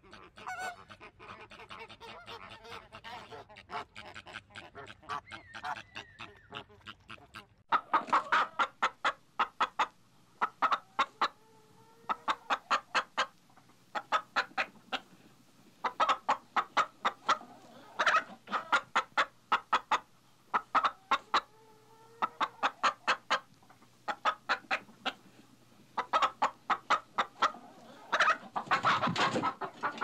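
A flock of flamingos gabbling quietly, then from about eight seconds in a hen clucking loudly in quick runs of clucks, one burst after another with short pauses between them.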